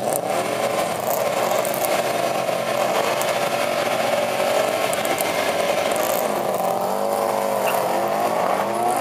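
Two Subaru Imprezas' turbocharged flat-four engines held at high revs on the start line. About six and a half seconds in they launch, and the revs climb, drop and climb again as they accelerate away.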